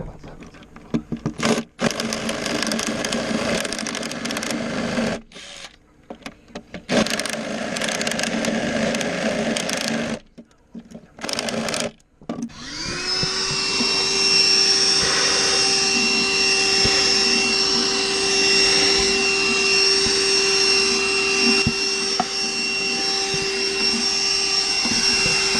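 Cordless drill boring into wood in several runs of a few seconds with short stops between; its battery is weak. About halfway through, a vacuum cleaner spins up and then runs steadily with a high whine.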